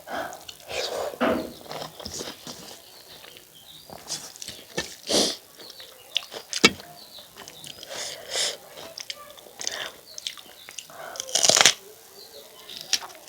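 Close-miked eating: a person chewing and smacking their lips over a meal of chicken curry and rice, in irregular wet smacks and clicks, a few of them louder.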